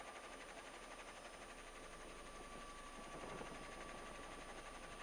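Faint steady hiss and low hum of an idle police radio channel between transmissions, with a faint steady tone running through it.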